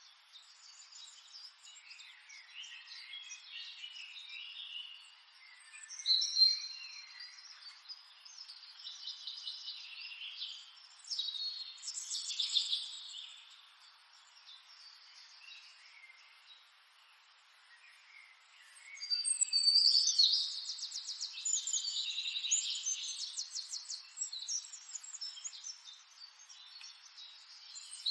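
Songbirds singing and chirping, several overlapping songs with fast trills, in bursts that swell and fade; the longest and loudest burst comes about two-thirds of the way in.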